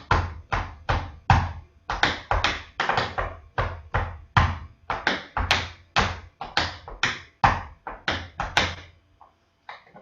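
Tap shoes striking a hard floor: a rhythmic run of heel drops and toe taps making up a Shim Sham tap break, thinning to a couple of light taps near the end.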